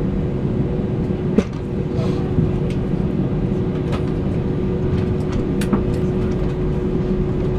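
Steady low vehicle rumble with a constant droning hum, and a few sharp clicks and knocks over it.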